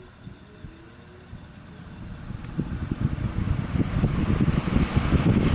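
AMC box fan with three metal blades starting up on high: a faint hum at first, then the rush of air building steadily louder from about two seconds in as the blades come up to speed.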